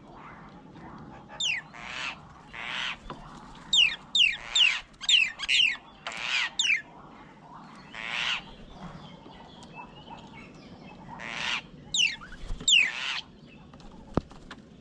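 Several birds calling in irregular bursts: harsh, rasping calls of about half a second alternate with quick whistles that fall steeply in pitch.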